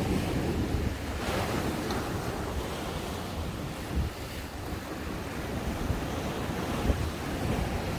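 Ocean waves breaking and washing onto the shore, a steady surf, with wind buffeting the microphone in a low rumble and brief bumps about four and seven seconds in.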